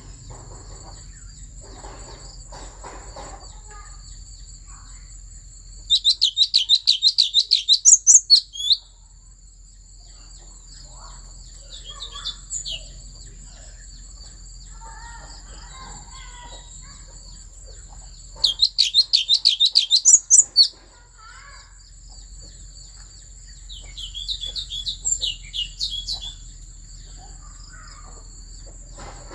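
Thanh tước songbird singing. Two loud bursts of rapid repeated high notes, each about two seconds long, come a few seconds in and again about two-thirds of the way through, with softer phrases between them. A steady high thin drone runs underneath.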